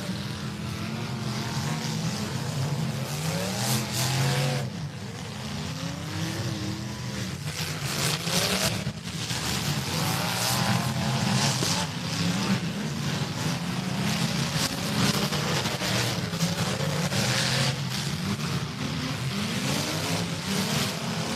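Several demolition derby cars' engines revving up and down over one another, with the crunch of cars ramming each other several times, loudest about four, nine and eleven seconds in.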